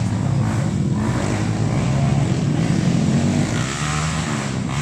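Honda XRM underbone motorcycles racing on a motocross track, their engines running and revving, the pitch rising and falling as the riders work the throttle.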